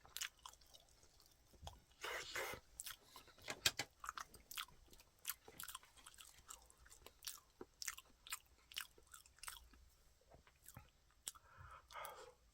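A person chewing and eating roasted sweet potato: faint, irregular small mouth clicks and smacks, with louder bursts about two seconds in and near the end.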